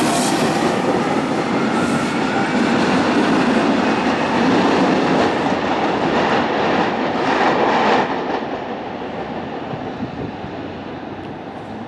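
Passenger train passing on the line, wheels clattering over the rails in a dense rumble. It is loud for the first eight seconds or so, then falls off as it goes by.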